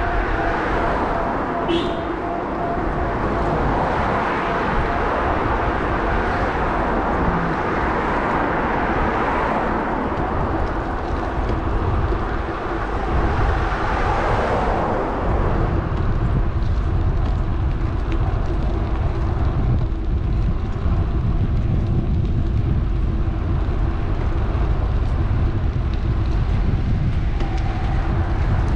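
Wind rumbling on an action camera's microphone while riding an electric bike beside a road, with motor traffic passing. The traffic is loudest in the first half and eases after about fifteen seconds, leaving mostly the wind.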